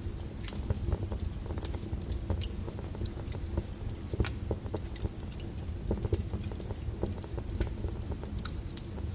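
Wood fire burning in a fireplace: the flames make a steady low rumble, with frequent irregular crackles and pops from the burning logs.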